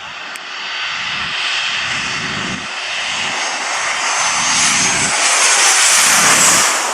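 Airplane on landing approach passing low overhead: its engine roar grows steadily louder with a high whine, peaks near the end and starts to fall away as it goes past.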